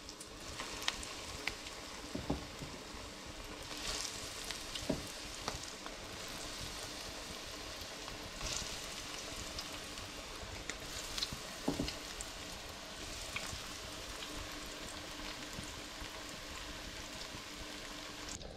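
Breadcrumbed fish cakes sizzling in shallow olive oil in a frying pan, with a steady hiss and scattered sharp crackles and pops of spitting oil as more cakes are laid in.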